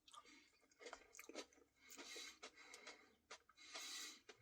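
Faint chewing with scattered small clicks and a couple of soft crunches, from a mouthful of cookie-filled ice cream Blizzard.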